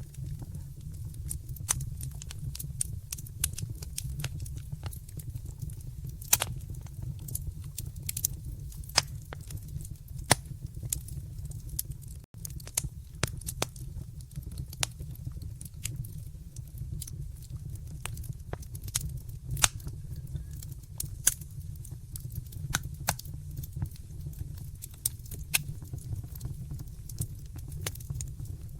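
Wood fire in a fireplace crackling and popping, with irregular sharp snaps over a steady low rumble of the flames. The sound cuts out for an instant about twelve seconds in.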